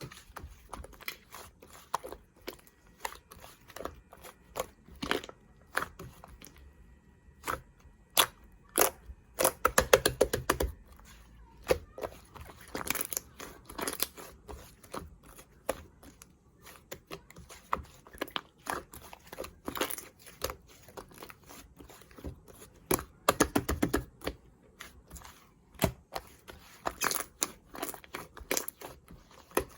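Slime being squished and pressed by hand, giving irregular sticky clicks, pops and crackles, with denser bursts of crackling every few seconds.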